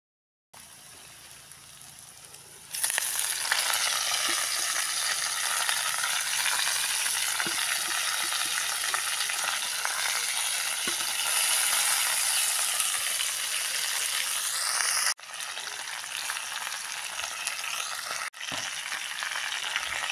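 Potatoes and leafy greens sizzling in hot oil in a cast-iron kadai. The sizzle starts faint, jumps much louder about three seconds in, and breaks off abruptly twice near the end.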